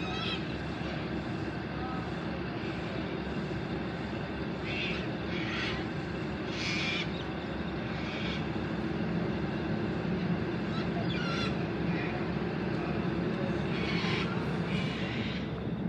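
Endeavour-class diesel railcar idling at the platform, a steady engine drone that grows a little louder in the second half. Several short high calls sound over it.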